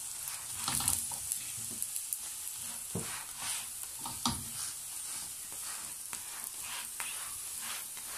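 Square paratha sizzling in oil on a hot tawa (flat iron griddle), with a steady hiss. A wooden spatula presses and scrapes it a few times, the sharpest strokes at about one, three and four seconds in.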